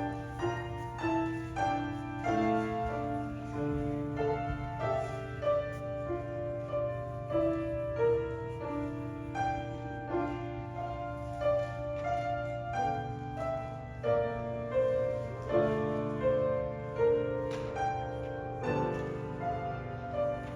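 Slow instrumental music on a keyboard, chords and melody notes changing about once a second over a steady low bass note.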